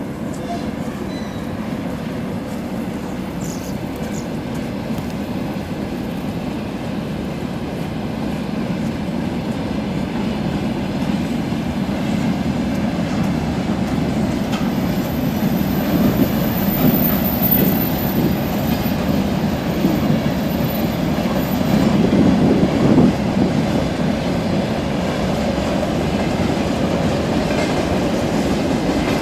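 Freight train of covered hopper wagons rolling past: a steady rumble of wheels on rails that grows louder as the track comes nearer. A thin, very high squeal from the wheels sounds for several seconds about halfway through.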